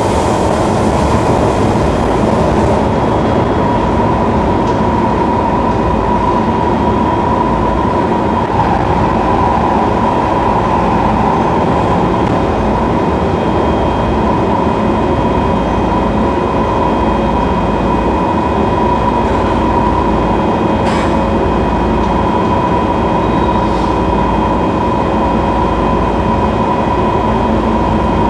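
Singapore MRT train running at a steady speed between stations, heard from inside the carriage: an even rumble of wheels on rail with a constant high whine.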